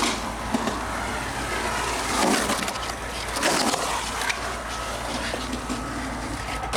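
Skateboard rolling on rough concrete, with several sharp clacks and knocks of the board spread through the clip, over a steady low hum.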